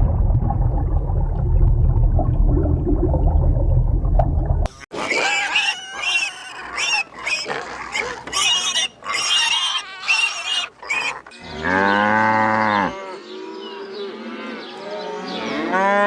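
Farm animals calling: a low rumbling sound for the first four and a half seconds, then a run of short, high calls, then two long, drawn-out pitched calls that rise and fall near the end.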